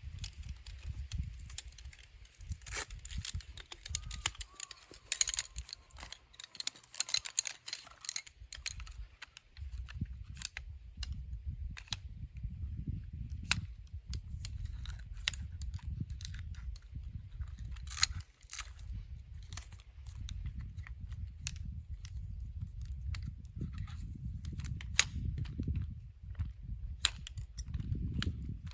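Burning firewood crackling, with irregular sharp snaps and pops over a low rumble.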